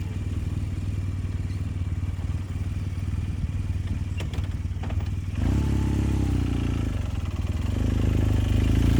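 BMW R1200GS boxer-twin engine running steadily at low revs. Two short clicks come about four to five seconds in, then the engine gets louder and its revs climb toward the end.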